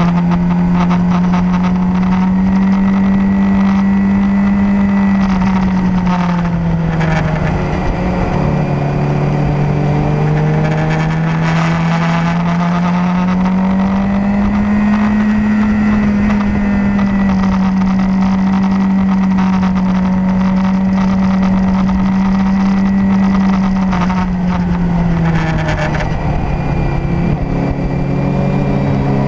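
Motorcycle engine pulling steadily on the open road, its pitch easing down twice, about six seconds in and again near the end, then climbing back as the throttle rolls on, over steady wind rush.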